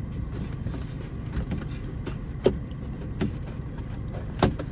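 Car running, heard from inside the cabin as a steady low rumble, with a few small clicks and knocks, one about two and a half seconds in and another near the end.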